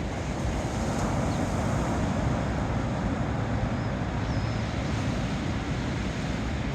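Ocean waves breaking and washing against shoreline rocks: a steady rushing surf that swells a little about a second in.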